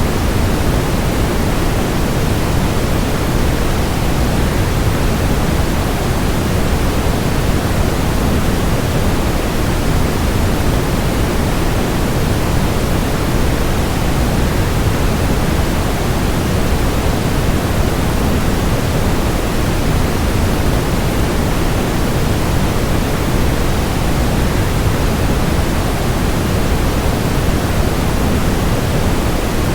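Waterfall blended with white noise: a steady, unchanging rush, fuller in the low end.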